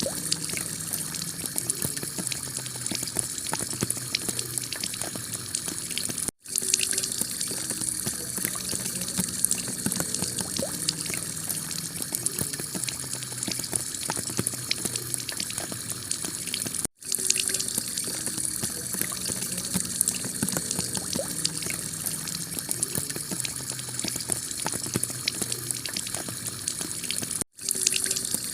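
Heavy rain falling on a clay tile roof: a steady, dense hiss of water full of small drop ticks. The sound cuts out for a split second three times, about ten seconds apart.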